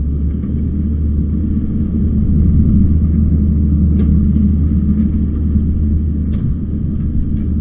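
Kubota skid steer's diesel engine running steadily under load as it drags a rake over dirt, a low drone with a few faint clicks.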